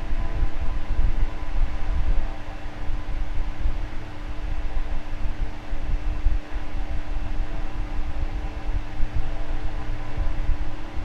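Electric fan running steadily: a continuous motor hum with several fixed tones over a low, fluttering whoosh of moving air.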